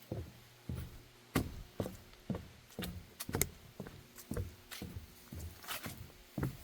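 Footsteps on a wooden boardwalk, hollow thuds at an even walking pace of about two steps a second.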